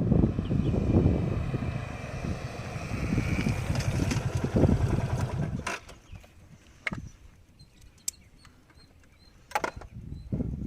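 Motorcycle engines running, loud for about the first six seconds, then dropping away to quiet with a few sharp clicks.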